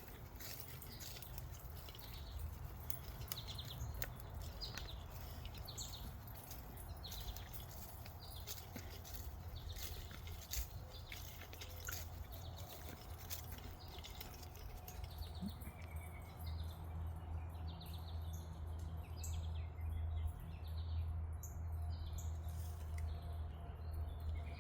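Birds chirping, many short repeated calls over a steady low rumble, with scattered faint clicks.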